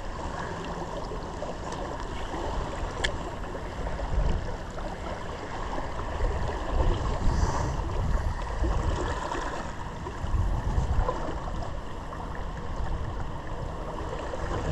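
Steady rush of a river's rapids, an even noise of flowing water with a low, uneven rumble underneath.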